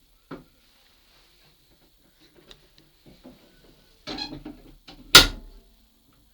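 Clicks and knocks from the lever frame of a mini signal box as its levers are worked: a short click at the start, a rattle about four seconds in, then one sharp, loud clunk just after.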